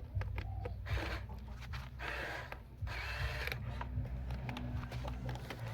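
Radio-controlled toy construction vehicle's small electric motors and gears whirring and grinding in short bursts over a steady low hum.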